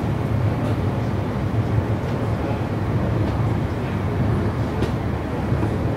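Interior noise of a Siemens electric multiple unit passenger train: a steady low rumble, with a few faint clicks.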